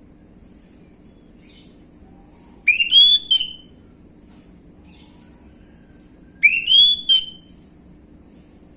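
Orange-headed thrush (anis merah) song phrases used as a lure: two short whistled phrases about three and a half seconds apart, each a rising whistle followed by a couple of quick notes. A faint steady hum lies underneath.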